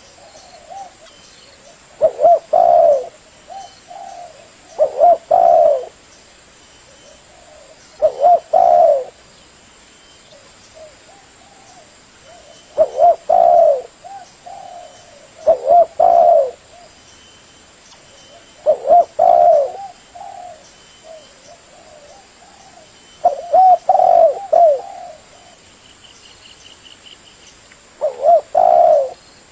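Spotted dove cooing: a short phrase of several low, rolling coos, repeated about every three seconds, eight times.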